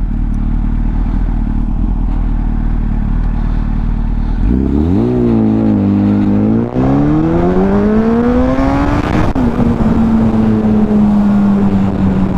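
2004 Honda CBR1000RR Fireblade's inline-four engine idling steadily, then revving hard on a full-throttle launch. The revs climb, drop at an upshift, climb for a longer stretch through the next gear, and drop again at a second upshift into a steady higher-speed run with rushing wind.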